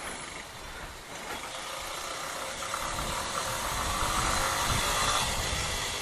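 CPI DTR 150 motorcycle on the move, engine running under a haze of road and wind noise that builds for the first few seconds as it gathers speed, then eases off slightly.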